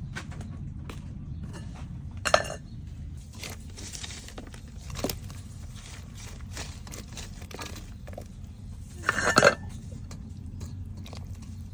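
Kitchen work: scattered clinks and knocks of dishes and utensils over a steady low rumble, with two louder clatters, one about two seconds in and a longer one near the end.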